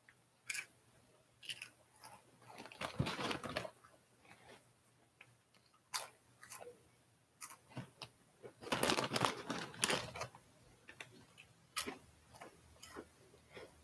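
Mouth crunching and chewing crisp veggie chips (potato, tomato and spinach chips): irregular crackly crunches, with two longer, louder spells of dense crunching about three seconds in and again around nine seconds in.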